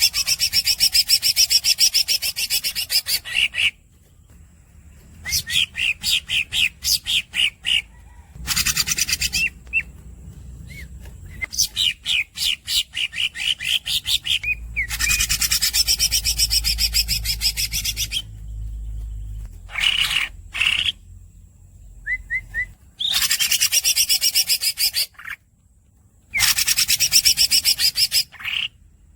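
Green leafbird (cucak ijo) singing long rolling phrases of fast, rapidly repeated high notes, each lasting a second to a few seconds, with short pauses and brief squeaky notes between them.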